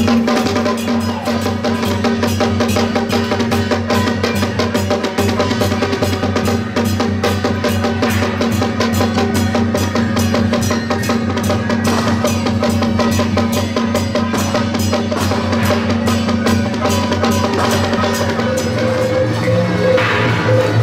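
Procession music: drums beating rapidly and continuously under sustained pitched instrument notes.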